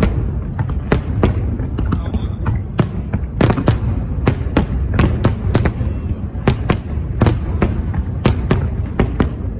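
Aerial fireworks bursting in a quick, uneven run of sharp bangs, about two a second, over a steady low rumble.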